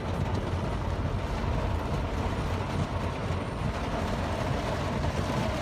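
Heavy rain falling, a steady rushing noise with a deep rumble underneath.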